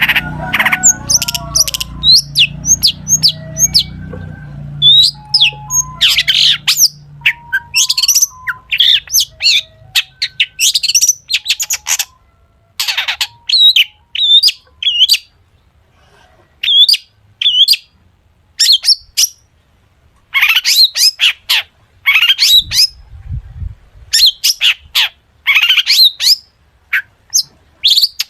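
Long-tailed shrike (cendet) singing a rapid, varied song of sharp chirps and quick whistled glides, packed with imitations of other birds. The song comes in bursts with short pauses between them.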